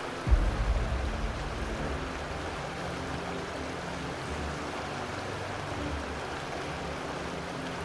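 Steady rushing of a large waterfall, with a deep rumble that swells about a third of a second in.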